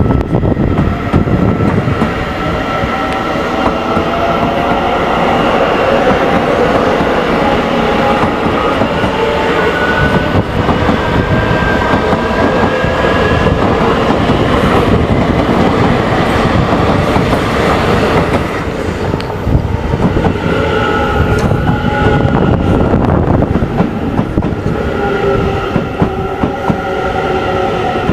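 A train running past on the rails, its wheels clacking over the rail joints, with drawn-out high tones from wheels or motors that rise slowly in places.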